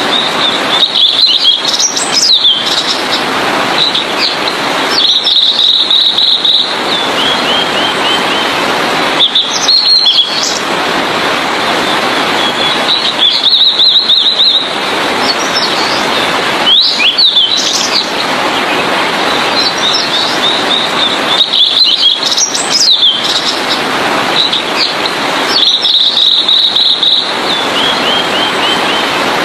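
Blue-and-white flycatcher singing: short, high warbled phrases with whistled notes and quick trills, repeated about every four seconds, over a steady rushing background noise.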